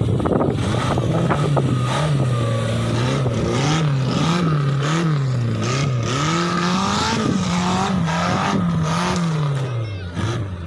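Off-road vehicle's engine revving up and down over and over, with clattering knocks; the revs drop off near the end.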